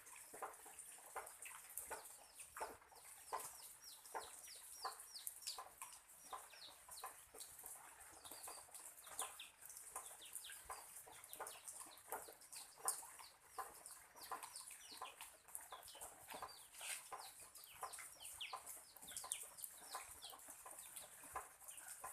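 Chickens clucking, with many short, quick falling peeps, over a steady high hiss of rain.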